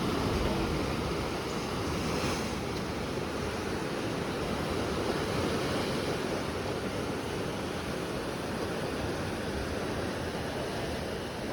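Sea surf washing against a rocky basalt coast, a steady rush of waves with wind.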